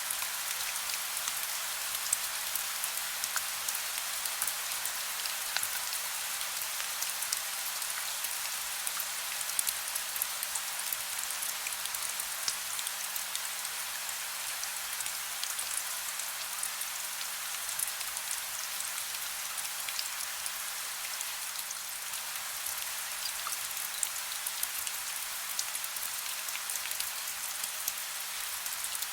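Soft rain falling steadily: an even hiss with many small, scattered drop ticks on a surface.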